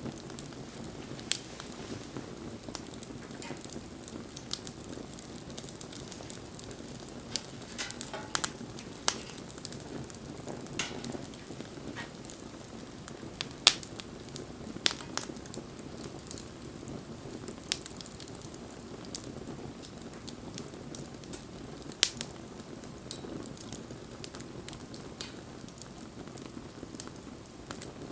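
Wood bonfire burning: a steady low rush of flame with irregular sharp pops and crackles, the loudest about fourteen seconds in and again about twenty-two seconds in.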